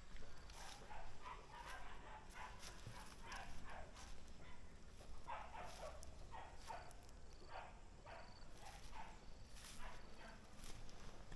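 Dogs barking over and over in short, separate barks, several a second at times.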